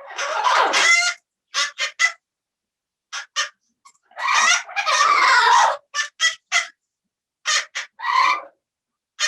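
Parrot calling in a series of harsh squawks and short clucking chirps, with longer, more drawn-out calls near the start and around four to six seconds in. Heard over a video call, with the sound dropping to dead silence between calls.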